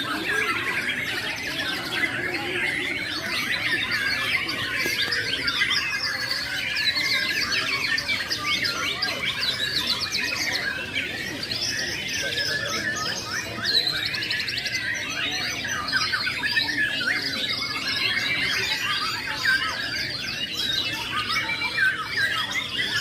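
Many caged songbirds singing at once at a songbird contest: a dense, unbroken chorus of overlapping chirps, trills and whistles.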